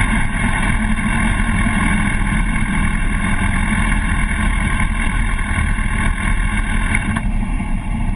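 Suzuki GSX-R750's inline-four engine running steadily at low revs as the bike rolls slowly, picked up by the bike's on-board camera.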